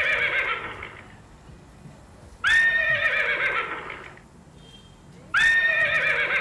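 A horse whinnying: the same neigh repeated about every three seconds. One is trailing off at the start, then two more follow, each starting suddenly with a high call and fading over about a second and a half.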